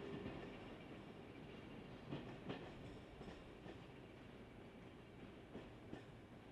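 Tourist train hauled by a CP series 1400 diesel locomotive running away into the station, heard faintly: a low rumble that fades, with a few separate wheel clacks over rail joints.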